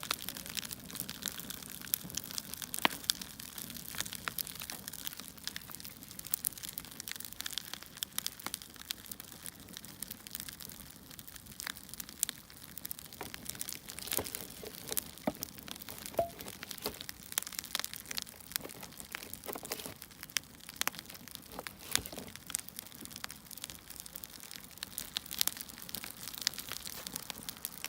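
Reproduced wood-fire crackling: irregular pops and snaps over a steady soft hiss, the sound of burning logs standing in for an electric fireplace's LED flames.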